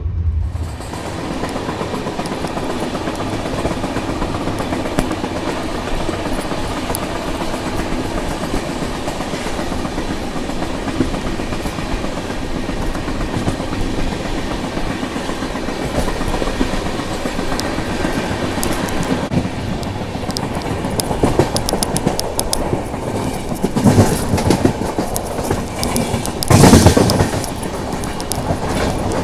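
Express passenger train running at speed, heard from an open coach doorway: a steady rumble with wheels clacking over the rails. The clacks get sharper in the last ten seconds, with a louder burst about two seconds before the end.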